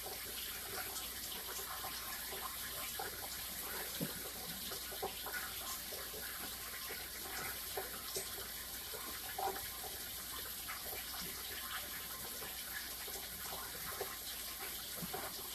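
Kitchen tap running steadily into the sink, with a few faint knocks and clicks from handling in the sink.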